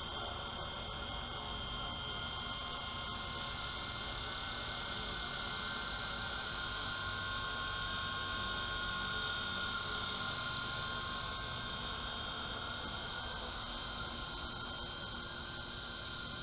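WLToys V915 fixed-pitch RC helicopter in flight: its electric motors and rotors give a steady high-pitched whine that grows a little louder and higher in the middle, then eases back near the end.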